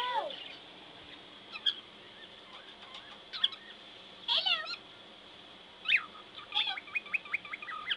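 Cockatiel chirping and whistling in short calls that slide up and down in pitch, then a quick run of about eight rapid chirps near the end.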